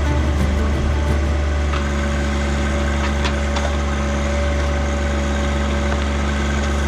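John Deere tractor backhoe engine running steadily at a constant speed, with a few faint clicks over it.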